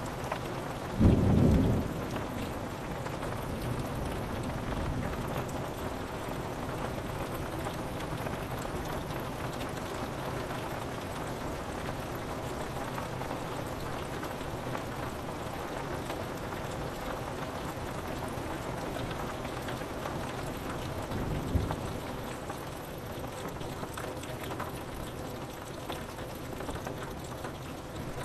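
Steady rain pattering on a window pane, with a short, loud clap of thunder about a second in and a fainter low rumble of thunder about three quarters of the way through.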